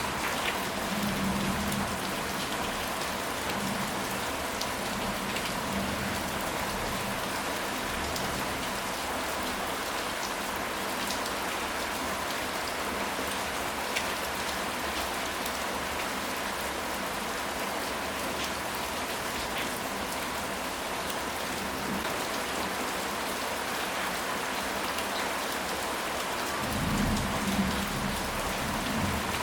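Steady rain falling, an even hiss of drops throughout. Low rumbles of thunder come in near the start and again near the end.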